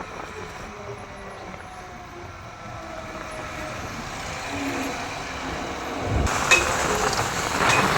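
Vehicle engine and road noise, with a louder knock or rattle about six seconds in and again near the end.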